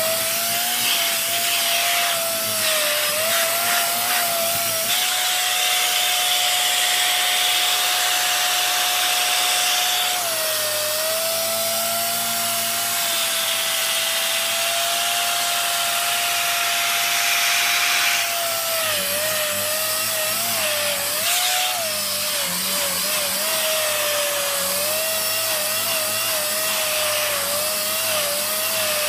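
Dyson DC54 vacuum cleaner running continuously, a steady motor whine over a hiss of rushing air. The whine steps up slightly about five seconds in, drops back around ten seconds, and wavers up and down in the last third.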